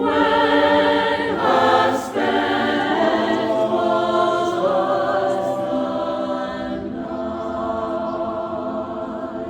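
Choir singing in sustained, held chords that shift every second or so; the sound falls away near the end as the piece closes.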